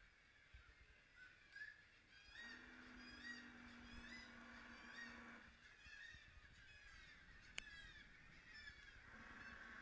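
Seabird colony calling: many short, arched, overlapping calls repeating throughout. A low steady hum joins about two seconds in and stops after about three seconds.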